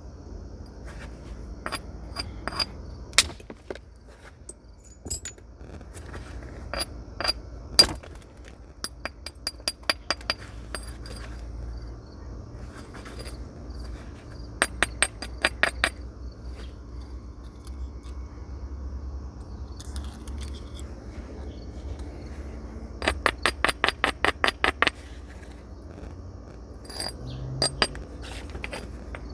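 Flint being knapped by hand with natural tools: sharp, glassy clicks of stone striking flint. There are a few harder single blows in the first several seconds, then quick runs of light taps, about eight to ten a second.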